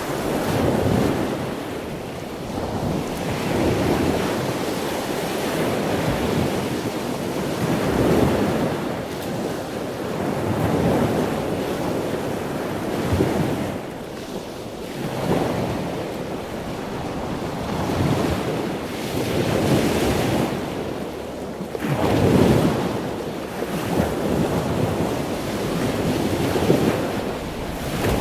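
Rushing sea and wind, with wind buffeting the microphone, swelling and easing every two to three seconds.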